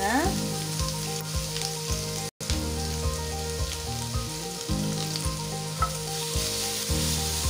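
Freshly grated carrot frying in hot ghee in a non-stick pan, sizzling steadily while it is spread and stirred with a wooden spatula. The sound drops out briefly about two seconds in.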